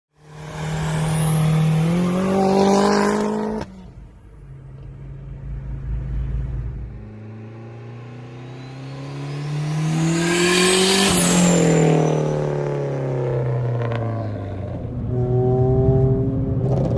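Straight-piped Mitsubishi Eclipse's 4G63 inline-four accelerating hard, its pitch climbing for a few seconds before cutting off suddenly. Then the car comes up and passes, the engine note rising to a loud peak and falling away, before a steadier engine sound near the end.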